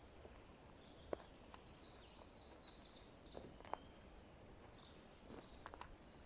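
A small songbird singing one quick, high trill of about eight repeated notes, over faint forest background. Single sharp clicks before and after the song, and a short run of small clicks near the end.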